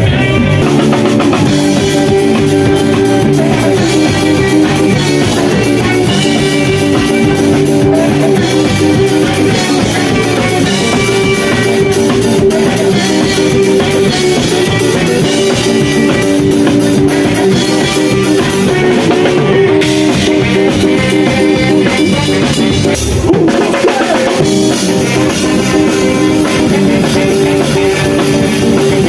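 Rock music with guitar and drum kit playing, with a brief drop in the bass about 23 seconds in.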